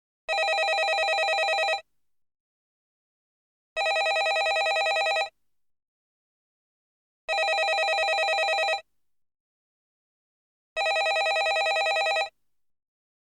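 Landline telephone bell ringing: four rings, each a fluttering trill of about a second and a half, repeating about every three and a half seconds with silence between.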